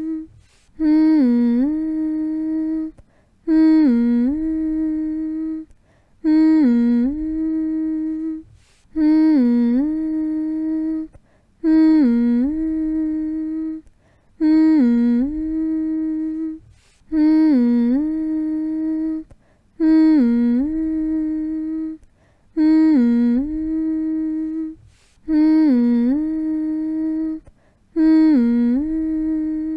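A person humming the same short, low phrase over and over, about once every three seconds: each hum dips in pitch and comes back up to a long steady note, with a brief gap before the next. It is a soothing hum meant to lull a baby to sleep.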